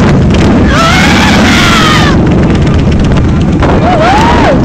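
Motorcycle engines running loud, mixed with wind on the microphone, while riders let out two long rising-and-falling whoops, about a second in and near the end.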